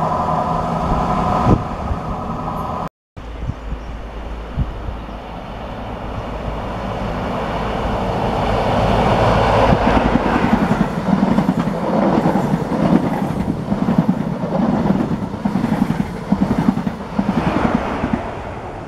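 A First Great Western Class 43 HST power car and its coaches passing close by. The sound swells as the power car goes past, then breaks into a quick rhythmic clatter of wheels over the rail joints as the coaches run by. At the start, a different train's steady engine hum cuts off abruptly.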